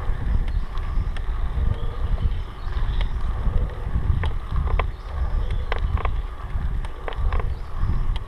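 Wind buffeting the microphone in a steady low rumble, with frequent sharp clicks and rattles at irregular intervals.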